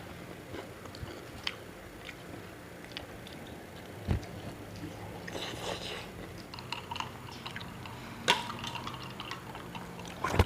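Eating at a table: quiet chewing and scattered small clicks and knocks of dishes or utensils, with two louder knocks about four and eight seconds in.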